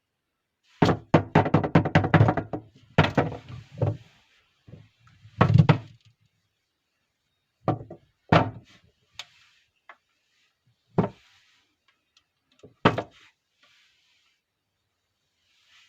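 Soap bars being unpacked and handled: a quick flurry of sharp taps and knocks about a second in, then about half a dozen separate knocks, with faint rustling of packaging between them.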